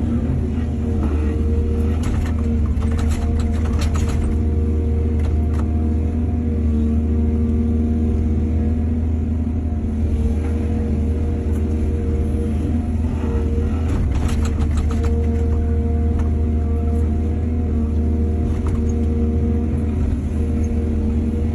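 Excavator diesel engine running steadily under load, with bursts of clattering twice, about two seconds in and again about two-thirds of the way through.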